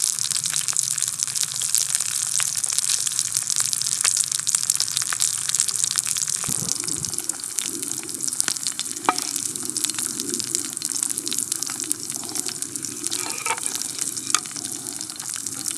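Steak sizzling in a Turk Classic iron frying pan over a wood campfire: a steady hissing fry full of small crackles and pops. A lower, wavering rushing sound joins about six and a half seconds in.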